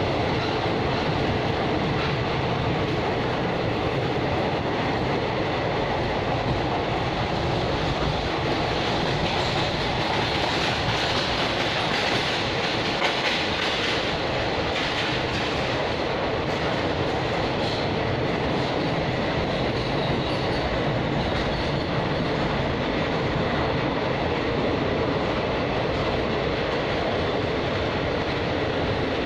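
A train running at speed, heard from inside a carriage: a steady rumble and rush of the wheels on the rails.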